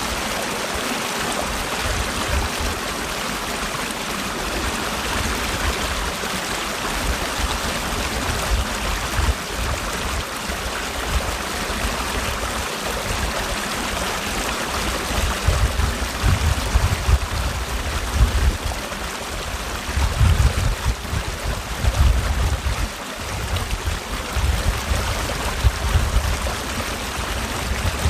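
Mountain valley stream rushing steadily over rocks. Irregular low rumbles come and go underneath, growing stronger in the second half.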